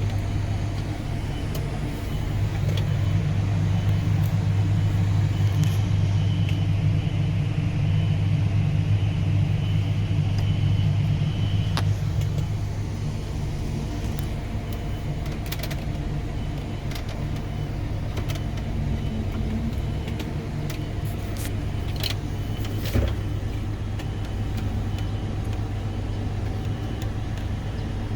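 Engine of a large farm machine running steadily while being driven. It gets louder, with a faint high whine, from about two seconds in until around twelve seconds, then settles back, with a few light clicks and knocks.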